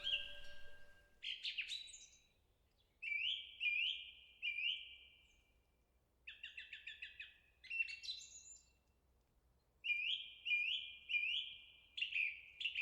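A songbird singing short phrases of sharp falling notes, three or four at a time, with a quick rapid series of notes about six seconds in. The last ring of a Buddhist temple wind bell (pungyeong) fades out in the first second.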